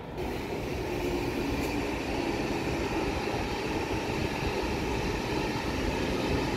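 Train running through the station: a steady rumble of wheels on track with a humming tone in it, coming in abruptly at the start.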